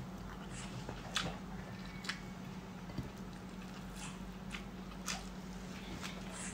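A person eating barbecued pork spare ribs: chewing, with scattered short wet mouth smacks and clicks about once or twice a second, over a steady low hum.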